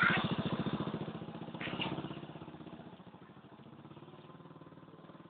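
A small vehicle engine running with an even pulsing beat, fading away over the first three seconds as it moves off.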